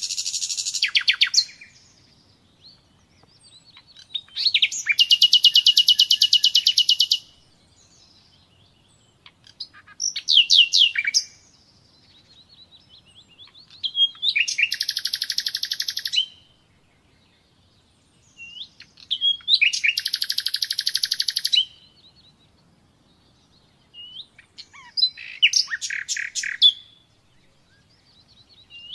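Common nightingale singing: about six separate phrases a few seconds apart, several of them long, fast runs of repeated notes.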